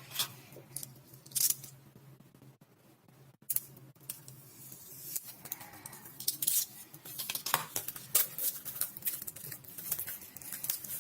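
Plastic packaging being handled and unwrapped: crinkling and rustling with many short, sharp clicks, busier in the second half.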